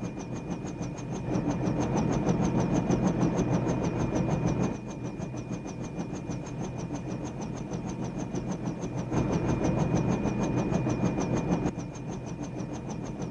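Helicopter running, with a steady high turbine whine and a fast, even chop from the rotor blades. The engine and rotor noise swells louder twice, about a second in and again around nine seconds.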